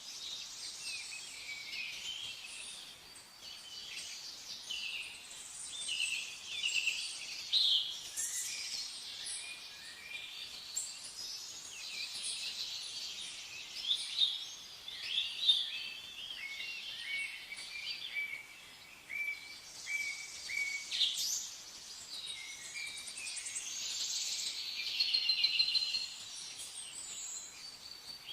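Several songbirds chirping and singing at once, a continuous overlapping chorus of short high calls and trills, with a louder burst of song near the end.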